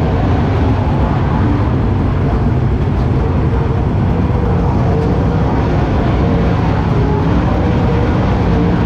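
Dirt-track race car engines running loud and steady, their pitch wavering slightly as they go around the track.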